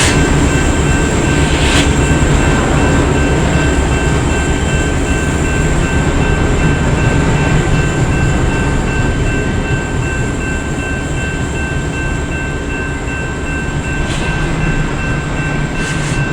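A train running past close by: a continuous loud rumble of wheels on the rails, with two faint steady high tones over it and a few sharp clicks.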